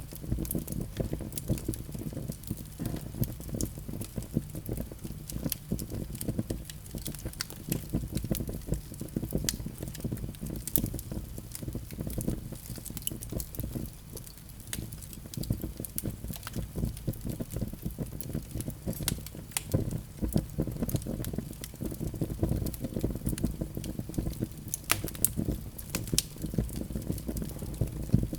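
Wood fire in a fireplace crackling: a dense, continuous stream of small pops and snaps over a low, steady rumble of the flames, with a few louder pops.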